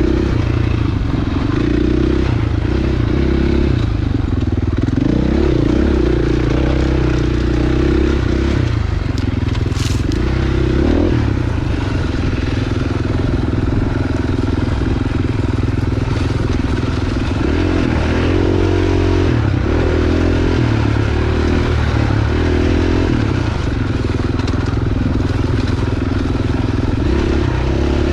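Husqvarna enduro dirt bike's engine running on a rough trail, the pitch shifting up and down with the throttle, with crunching and rattling from the ground.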